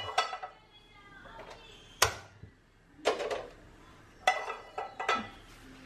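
A metal spoon clinking and scraping against a plate and bread while bread slices are buttered: a sharp clink about two seconds in, then short clusters of clinks around three seconds and again between four and five seconds.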